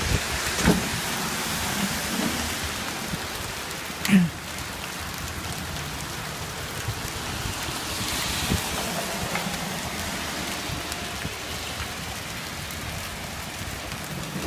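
Hail of about three-quarter inch falling hard in a steady hiss of hailstones, with scattered sharper strikes and a brief louder sound about four seconds in.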